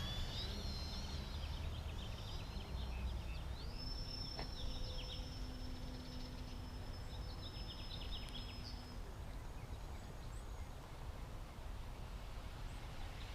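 Small electric RC aerobatic plane (brushless motor on a 10x4.7 slow-flyer propeller) heard at a distance as a thin steady whine. The whine rises in pitch at about four seconds, holds for about five seconds, then fades, over a low outdoor rumble with faint chirps.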